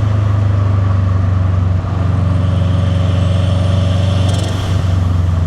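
Turbocharged Subaru WRX STi flat-four engine pulling steadily through a catless downpipe and titanium cat-back exhaust, giving a deep boxer rumble. The engine note eases briefly about two seconds in and again shortly before the end.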